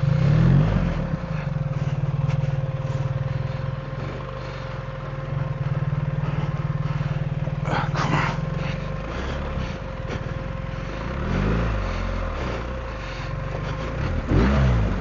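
BMW R 1300 GS Adventure's boxer-twin engine running while the motorcycle is ridden, the engine note rising and falling with the throttle near the start, about eleven seconds in and near the end. A brief rattle about eight seconds in.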